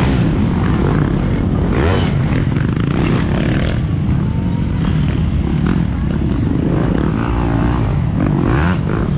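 Motocross dirt bike engines running on the track, loud and steady.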